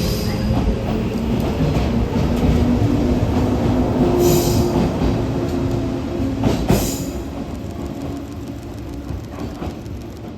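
Shinano Railway 115 series electric train departing: its resistor-controlled traction motors humming steadily over wheel and track rumble, with two brief hissing, squealing bursts about four and six and a half seconds in. The sound fades as the train draws away.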